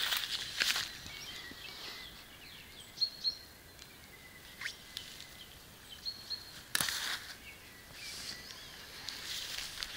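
A few short, high bird chirps, about three and six seconds in, over soft rustling of footsteps in grass and weeds at the start and again near the end. One sharp click comes about seven seconds in.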